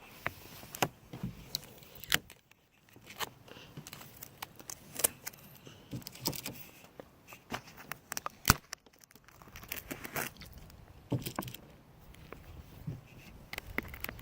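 Application tape being peeled off vinyl lettering stuck on a car, with irregular sharp crackles and ticks as the tape comes away.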